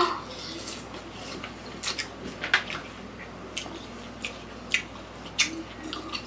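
Close-miked wet, juicy chewing and mouth smacks of two people eating watermelon, a string of short sharp squelches and clicks at irregular intervals.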